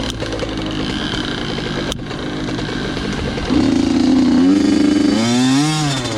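Two-stroke dirt bike engine under way, chopping along at lower revs, then opening up louder and higher about halfway through, with a quick rev up and back down near the end.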